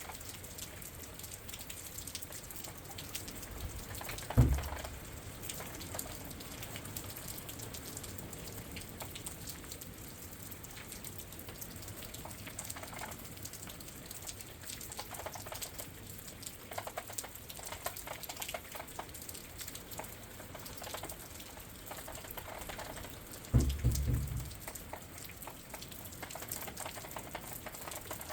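Rain pattering steadily outside a window, a dense crackle of small drops. Two brief low thumps stand out, one about four seconds in and one about three-quarters of the way through.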